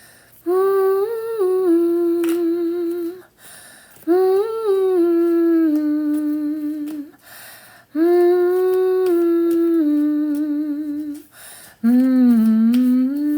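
A woman's voice toning long held notes on 'ooh' and 'ah', four notes of about three seconds each with short breaths between. Each note rises a little, then settles into a wavering tail.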